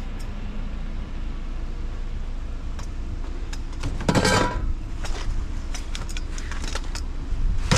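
A vehicle's engine running steadily with road noise, a low hum. Two brief louder noises come about four seconds in and near the end.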